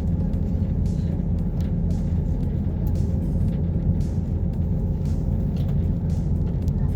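Whale-watch tour boat's engine running with a steady low rumble.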